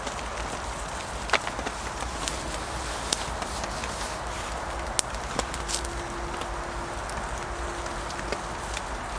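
Wood campfire crackling, with a few sharp, scattered pops over a steady hiss.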